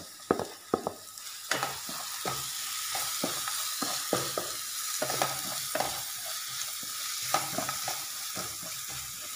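Chopped onion tipped off a plate into hot oil in a frying pan with a wooden spatula, a few sharp taps at first, then sizzling steadily from about a second and a half in as it is stirred, the spatula scraping and knocking against the pan.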